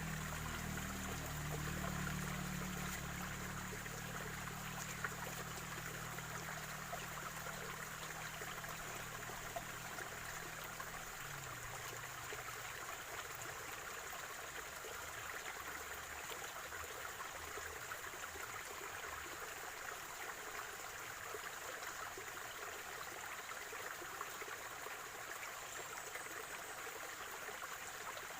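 Water of a small spring-fed stream trickling and gurgling steadily. A low steady hum sits underneath for the first dozen seconds, then fades out.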